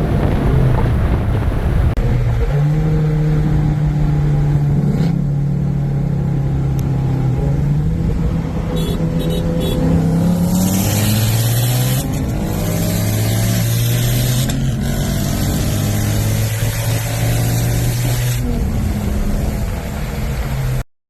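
Car engine pulling hard under acceleration: its pitch climbs slowly through each gear and drops at two gear changes, about ten seconds in and again near the end. Wind and road noise grow loud after the first shift.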